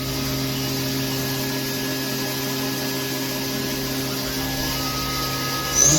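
Haas VF-6SS CNC machining center spindle running steadily at 8,000 RPM with a constant whine. Near the end it starts accelerating toward 12,000 RPM, the whine rising in pitch.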